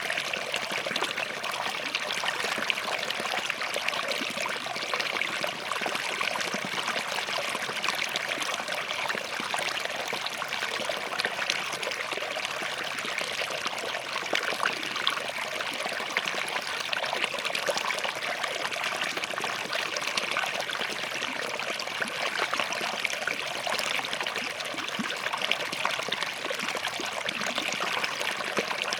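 Small forest stream running over and between rocks, a steady, even babbling with fine trickling detail.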